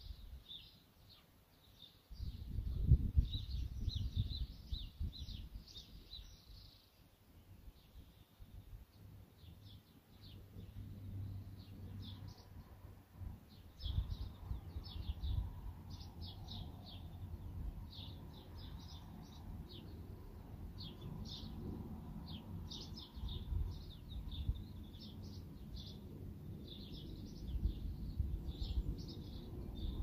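Small birds chirping in quick runs of short high notes throughout, over an uneven low rumble that swells and fades, loudest about three seconds in and near the end.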